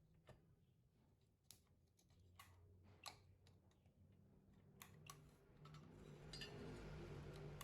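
Faint, scattered sharp clicks and taps, about half a dozen spread over several seconds, over a low hum that grows louder in the last two seconds.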